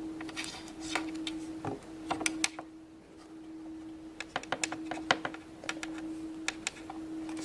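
Irregular small clicks and taps of plastic Play-Doh molds and tools being handled, in scattered clusters, over a steady low hum.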